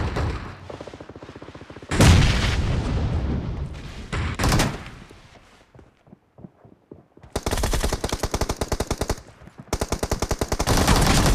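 Automatic gunfire in a shooter video game: several bursts of rapid fire, with a lull of about two seconds in the middle before two more bursts.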